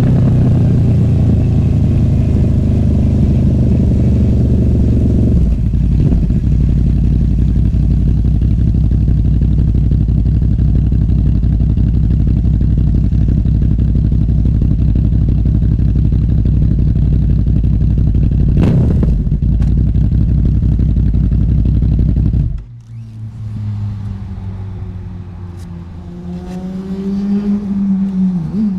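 Honda VFR800F motorcycle's V4 VTEC engine through an SC Project Conic exhaust, pulling steadily on the road with a strong, even engine note and a brief break about five seconds in. Near the end the note drops away sharply, and quieter wavering tones follow.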